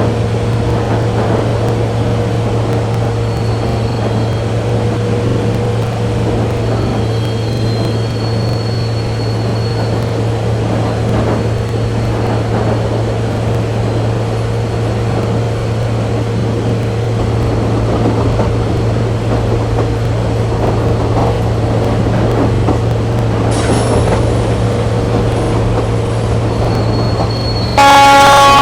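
Indian express train running with a steady, loud rumble. Near the end a train horn starts, loud and sustained.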